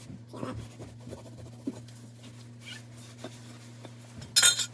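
Rag rubbing and scratching over rusty boiler burners as they are wiped down with WD-40, with a few small clicks and one short, loud scraping burst near the end, over a steady low hum.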